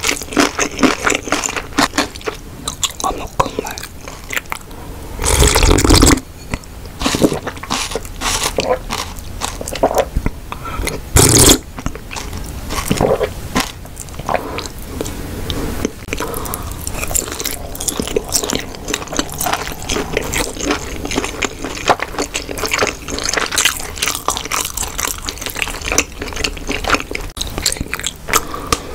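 A person chewing and biting Korean snack-bar food (kimbap, sundae and tteokbokki) right at the microphone, with many short wet mouth clicks. There are two much louder bursts about five and eleven seconds in.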